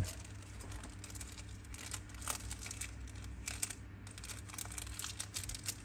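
Faint rustling and scattered small clicks of objects being handled close to the microphone, over a low steady hum.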